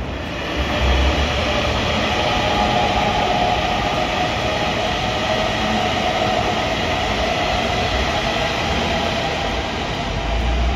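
A train passing, its running noise steady and swelling a little under a second in.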